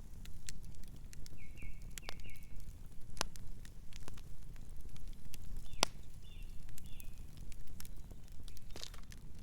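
Campfire crackling over a low rumble of flames, with scattered sharp pops, the loudest about three and six seconds in. Short, soft night-bird chirps come in two little groups, around two seconds in and again around six to seven seconds in.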